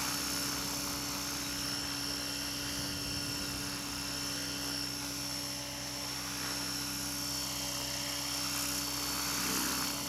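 Align T-REX 600E LTD electric radio-controlled helicopter in flight: a steady whine from its motor and drivetrain with the hum of the rotor blades, getting a little louder about nine seconds in.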